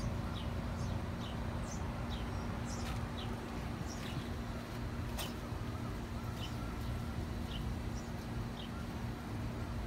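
Small birds chirping in the background: short, high chirps about once or twice a second, over a steady low rumble and a faint hum.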